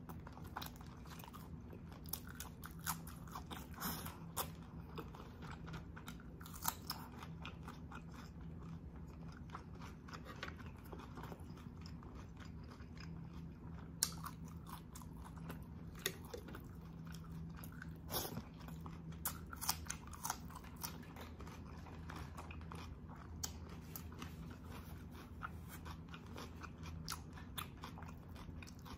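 Close-miked chewing and biting of braised beef oxtail, with wet mouth sounds and many small sharp clicks scattered throughout, over a steady low hum.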